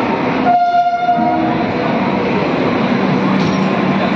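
Indian Railways express passenger coaches rolling past along a station platform as the train arrives, a steady rumble of wheels on rail. A short high tone sounds about half a second in.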